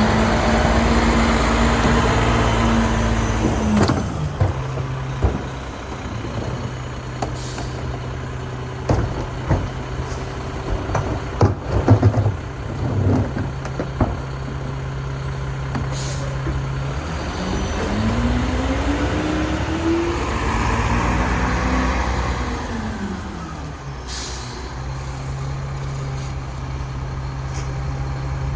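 Diesel garbage truck with a rear-loader packer body: the engine idles and twice revs up for several seconds, the pitch rising then falling back to idle, as the packer cycles. Metal clanks come in a cluster in the middle, and there are three short bursts of air hissing.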